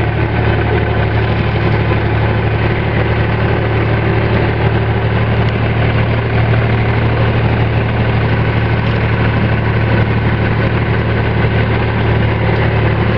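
Tractor engine running steadily at an even speed, a loud, constant low hum.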